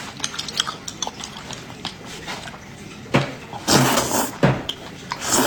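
Close-miked eating sounds: small wet clicks of chewing, then a run of louder mouth noises past the halfway point.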